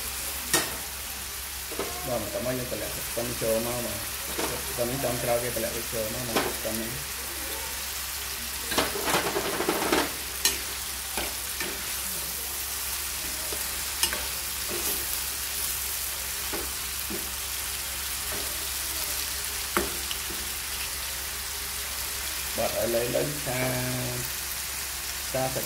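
Chicken and shredded ginger sizzling and bubbling in sauce in a stone-coated pan over a gas flame, with a steady hiss. A spatula stirs and clicks against the pan now and then.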